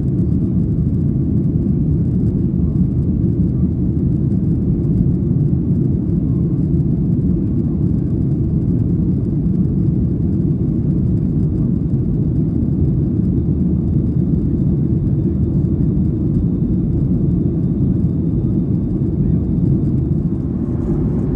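Steady low rumble of an airplane in flight: engine and airflow noise, even and unchanging, with a faint thin high tone above it.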